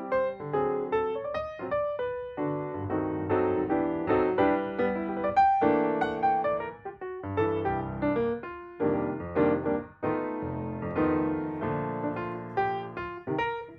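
Background music: a piano-style keyboard playing a gentle melody with chords.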